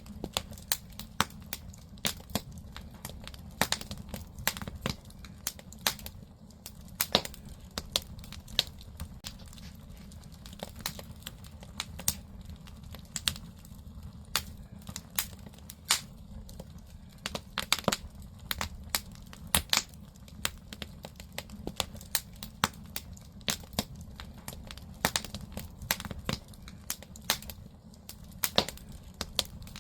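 Firewood burning in a wood-fired agungi firebox: irregular sharp pops and crackles of the burning logs, several a second at times, over a low steady rumble of the fire.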